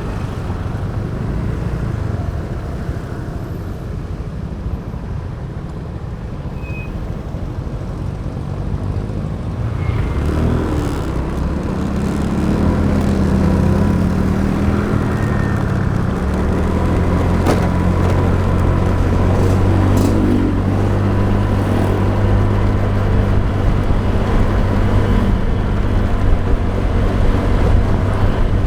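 Motor traffic heard from a moving motorbike: steady engine and road noise, with wind. About ten seconds in it grows louder, and a deeper, steady engine hum sets in and holds.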